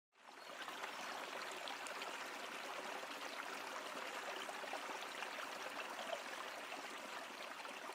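Rushing river water, a steady even hiss of flowing current that fades in at the start.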